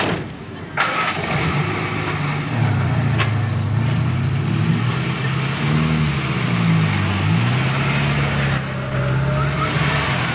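Car engines starting and pulling away one after another, a Morris Minor Traveller and then a saloon, rising and falling in pitch as they rev and move off. The sound comes up suddenly about a second in.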